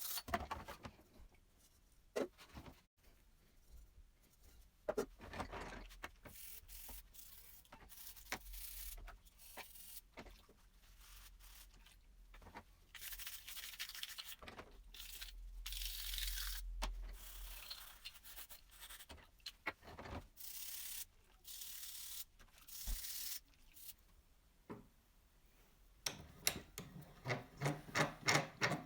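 Hand scraping and rubbing strokes on the old oil lamp's parts, as in sanding or filing away rust, coming in irregular bursts. Near the end they settle into a quick, even run of about three strokes a second.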